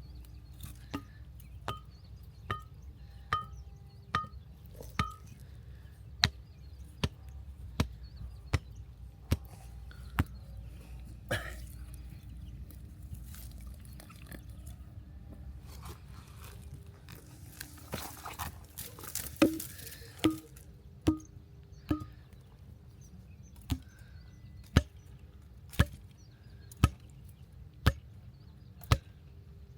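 Repeated sharp blows of a hand tool, a little more than one a second, in two runs with a pause of several seconds in the middle.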